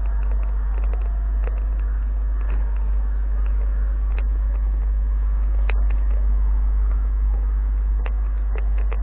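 MEMU electric train running: a steady, heavy low rumble with scattered light clicks and knocks.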